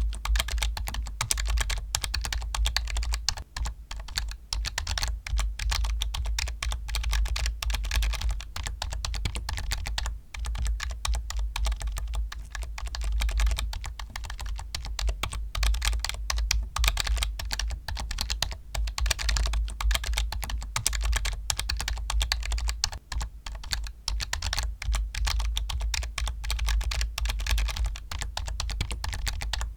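Fast, continuous typing on a computer keyboard: a dense run of key clicks with only brief pauses, over a steady low hum.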